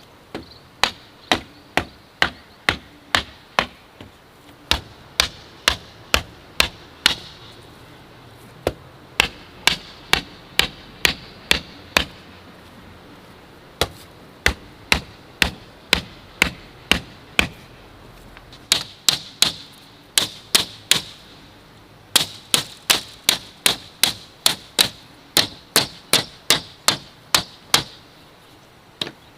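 A hand tool striking bamboo over and over: sharp cracks about three a second, in runs of several seconds with short pauses between them. The later strikes ring brighter.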